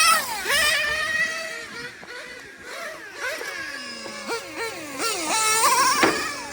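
The OS Speed 2103R .21 glow two-stroke engine of a nitro 1/8 GT RC car, revving hard and dropping off over and over as the car accelerates and brakes. It makes a high buzzing whine that rises and falls in quick succession.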